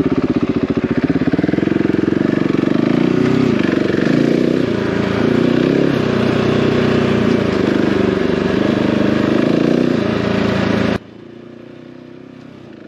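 A single-cylinder dual-sport motorcycle engine running under way, its pitch rising and falling with the throttle. About eleven seconds in it cuts off abruptly, leaving a much quieter steady sound.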